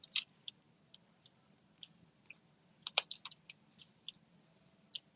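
Faint, scattered small clicks and crackles of glue dots being peeled off their backing strip, with a quick run of them about three seconds in.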